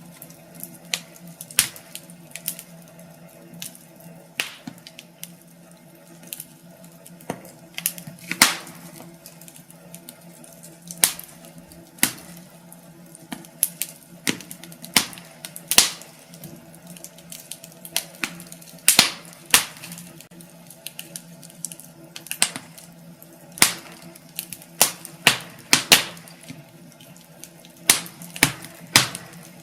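Wood fire crackling in a fireplace: irregular sharp pops and snaps of varying loudness, over a faint steady low hum.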